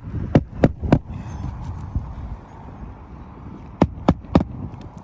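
Hammer driving old roofing nails down flush under lifted asphalt shingles. Three quick strikes, a pause of about three seconds, then three more.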